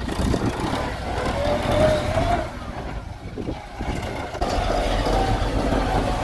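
Kubota tractor's engine running, dropping off between about two and a half and four seconds in, then coming back and running steadily to the end.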